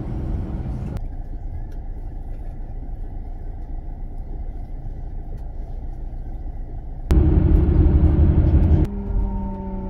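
Bus engine and road rumble, steady and low, heard in a few abruptly cut segments, the loudest about two-thirds of the way through. Near the end a steady engine note slowly falls in pitch.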